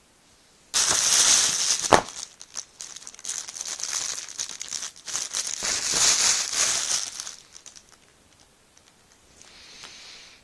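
Plastic packaging crinkling and rustling as packs of fireworks are handled, starting suddenly about a second in with a sharp click soon after, and going on in uneven bursts before dying away; a short faint hiss near the end.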